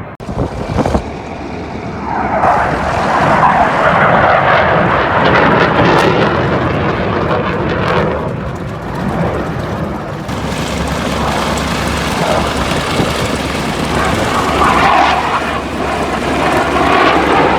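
Aircraft engine noise from an airplane flying past, swelling loud twice as it passes.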